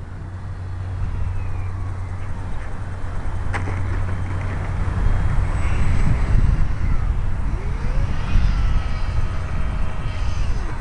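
Wind buffeting the microphone as a heavy, gusting rumble, with a faint whine that glides up and down from a micro RC airplane's electric motor.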